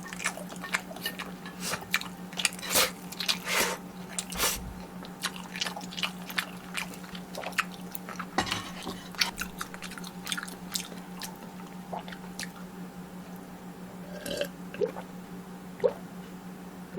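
Close-miked eating sounds: biting and chewing food, with dense crackly mouth clicks in the first few seconds that thin out to scattered smacks later.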